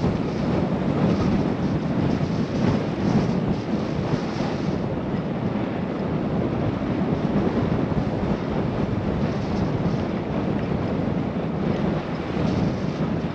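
Wind rushing over a GoPro's microphone while cycling, a steady loud rumble with a fainter hiss above it.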